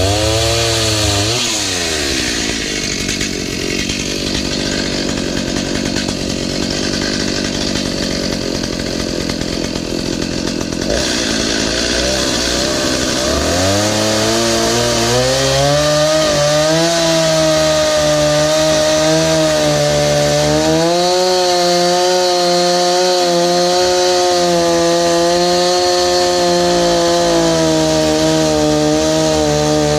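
Chainsaw cutting into the dead bush's wood, the engine labouring under load for roughly the first half. About halfway through it revs up and runs steadily at high speed.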